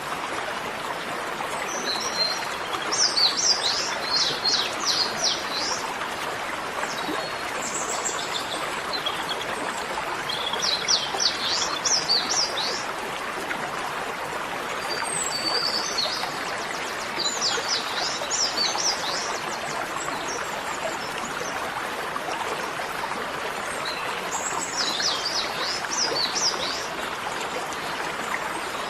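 A songbird repeats a short, fast phrase of sharp down-slurred notes four times, about every seven seconds, over a steady rushing background noise.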